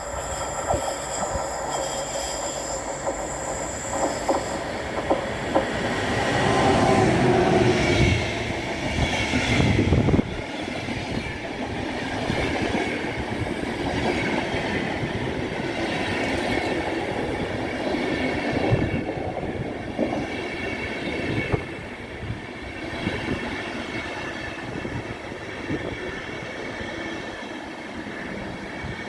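Intercity train pulling into a station platform: wheels rumbling and clacking over the rail joints, loudest as the locomotive passes about seven to ten seconds in, with a faint squeal of wheels and brakes. The train then slows and the rolling noise eases off.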